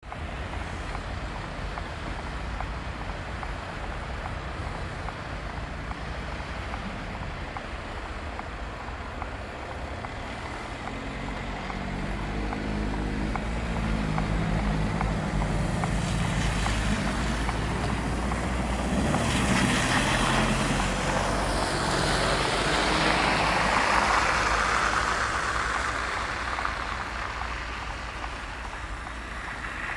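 Road traffic: a steady low engine rumble with a motor vehicle passing, its engine and tyre noise building to a peak about two-thirds of the way through and then fading.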